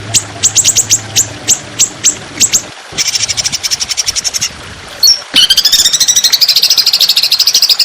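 Songbird song from a bird-song training recording: a string of sharp, quick high notes, then a dense trill about three seconds in. From about five seconds in comes a long, very fast trill that rises slightly in pitch.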